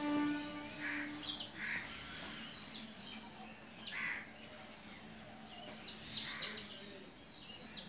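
Birds calling: many short, high chirps, with a few louder, harsher calls about two seconds apart. At the start, a steady low tone with overtones sounds for about a second and a half.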